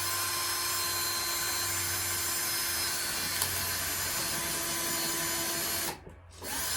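Electric drill boring a hole in wood. The motor spins up at once and runs steadily for about six seconds, stops, then starts again in a short burst near the end.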